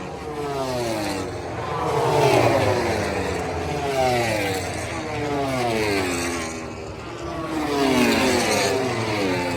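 Racing motorcycles passing one after another at speed, each engine's pitch falling as it goes by, about five passes spaced a couple of seconds apart.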